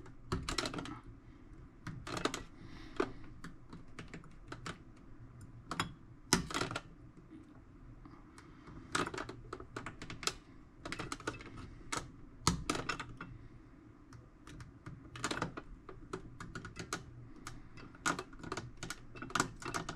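Thin knife blade digging and prying at a stuck corner, making irregular light clicks and scratches, with a few sharper ticks.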